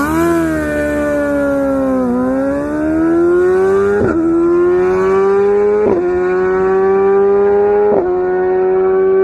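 Yamaha R6 inline-four sportbike engine accelerating hard through the gears, loud, with its pitch dipping and climbing and then a quick upshift about every two seconds, each a brief drop in pitch followed by a steady climb.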